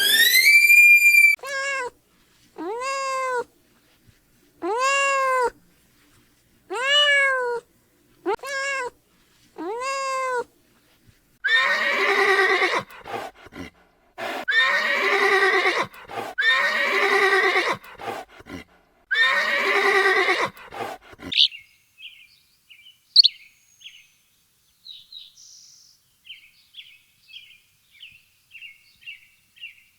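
Farm animal calls: about six short, arched calls a second or two apart, then four longer, rougher calls, then quick high chirping for the last several seconds.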